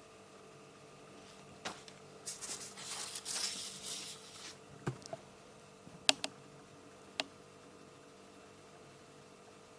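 Paper rustling as a bullet journal page is turned, starting about two seconds in and lasting nearly three seconds, followed by a few sharp clicks and taps as the page settles and the notebook is handled. A low steady hum sits underneath.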